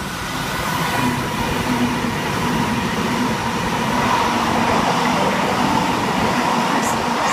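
Sydney Trains OSCAR (H-set) electric intercity train running through the station at speed without stopping: a loud, steady rush of wheels and motors with a faint whine, building over the first second or two.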